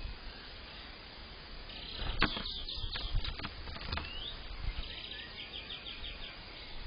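Small birds chirping: short high calls, one rising chirp about four seconds in, and a quick run of repeated notes near the end. A few sharp taps and knocks come in between, typical of birds landing and pecking at a feeder.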